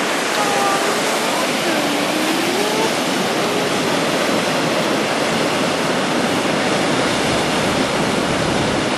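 Waterfall rushing steadily, a dense even roar of falling water. Faint voices are heard over it in the first few seconds.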